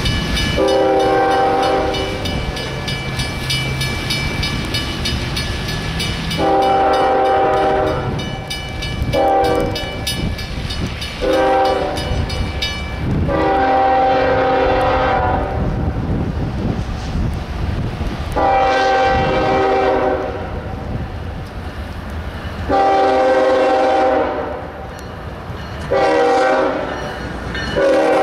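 CSX freight locomotive's multi-chime air horn sounding a series of long blasts and short blasts, in the long-long-short-long pattern sounded for a grade crossing, over the steady rumble and wheel clatter of the train rolling by.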